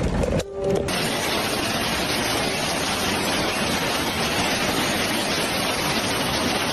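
Steady, even hiss of a heavy downpour, starting abruptly about a second in.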